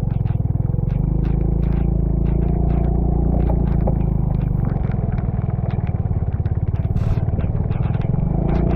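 A vehicle engine running steadily while under way, a low pulsing drone, with many short ticks and clattering knocks over it.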